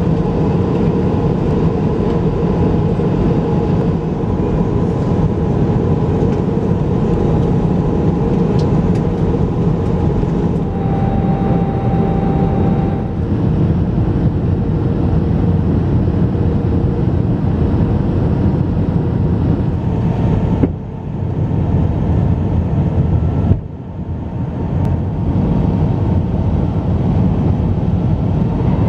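Steady jet airliner cabin noise heard from a seat inside an Airbus A321 in flight: a constant rush of engine and air noise with faint steady hum tones. The level dips briefly twice, each time just after a click, about two-thirds of the way through.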